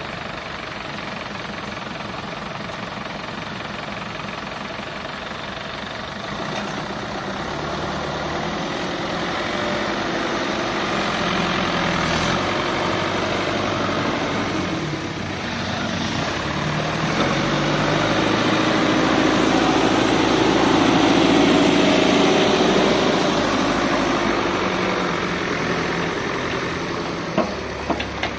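Heavy diesel construction machinery engine running steadily. It grows louder from about six seconds in to a peak around twenty seconds, then eases off again.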